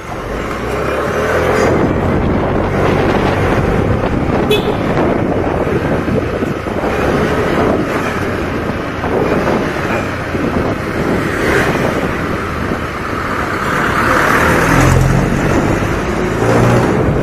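Loud wind rushing over a foam-wrapped action-camera microphone on a moving motorcycle, with the motorcycle's engine running under it. The foam does not cut the wind noise, which stays loud.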